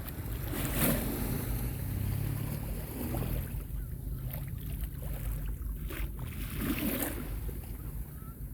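Small sea waves washing onto a sandy beach, the wash swelling about a second in and again near the end, with wind rumbling on the microphone.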